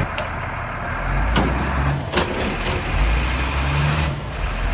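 Stewart & Stevenson military truck's diesel engine running under load, swelling and easing off, with two sharp knocks about one and a half and two seconds in.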